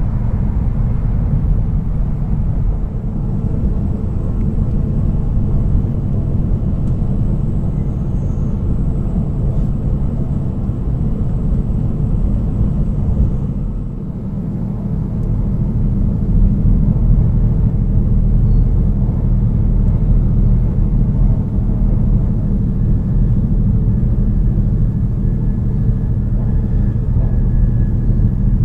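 Steady low rumble of an E5-series Shinkansen train running, heard from inside the passenger car. The rumble dips briefly about halfway through, then comes back a little louder.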